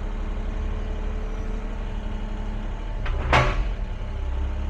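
Caterpillar excavator's diesel engine running steadily, heard from inside the cab, with one loud sharp knock about three seconds in.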